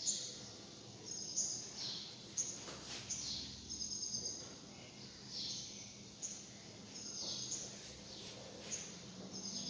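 Faint bird chirps: short high calls, some falling in pitch, scattered about once a second over a steady low hum.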